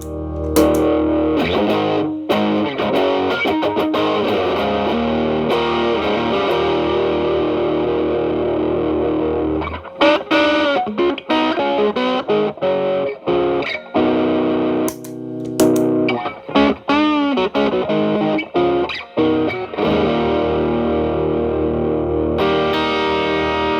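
Telecaster through an Xotic BB overdrive pedal at maximum gain into a Marshall Valvestate clean channel, cleaned up to a light crunch. Ringing held chords for about ten seconds, then short picked notes and string bends, then a sustained chord near the end.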